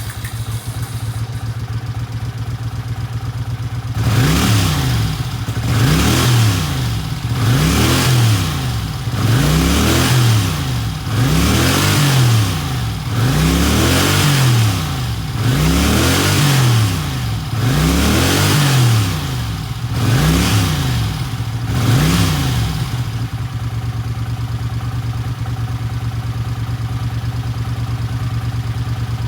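Honda CX-EURO motorcycle's V-twin engine, just started, idling, then revved in about ten short blips roughly every two seconds, each rising and falling in pitch. After that it settles back to a steady idle.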